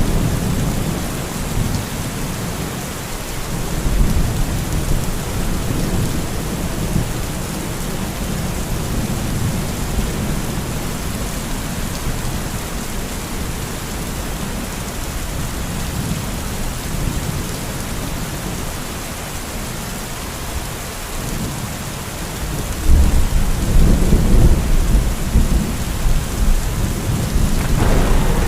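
Steady rain with low rolling thunder rumbling underneath, the thunder swelling louder near the end.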